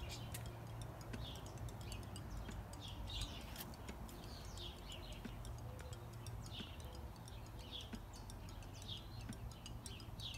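Small birds chirping: short high chirps repeating irregularly, about one or two a second, over a faint low hum.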